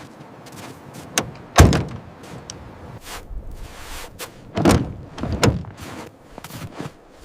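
A few heavy knocks or thuds, the loudest about a second and a half in, with two more near the middle and fainter taps between.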